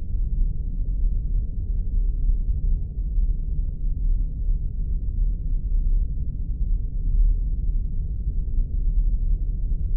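Spaceship sound effect: a steady, deep rumbling drone with no distinct events.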